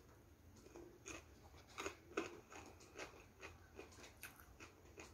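A person chewing a crunchy mouthful of cucumber, with faint crunches at about two or three a second starting about a second in, the loudest near two seconds in.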